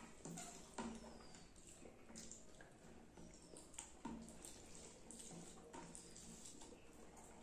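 Soft, close-miked wet eating sounds: chewing and lip-smacking on rice and fish curry, an irregular run of small smacks and clicks several times a second.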